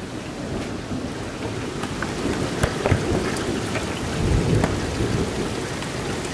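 Thunderstorm: rain falling steadily over continuous rumbling thunder, with a couple of sharp cracks a little under halfway in and a louder swell of rumble shortly after.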